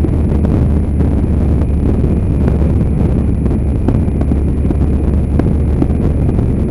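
Steady wind rush buffeting the microphone of a motorbike under way, mixed with the bike's running engine.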